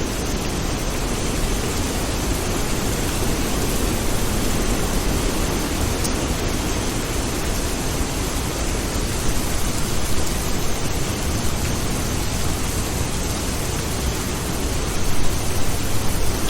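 Steady, even rain noise, with a slight swell in loudness near the end.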